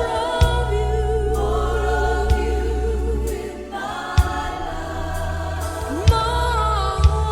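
Gospel choir singing a slow song with vibrato over a steady low bass, with a sharp drum hit about every two seconds.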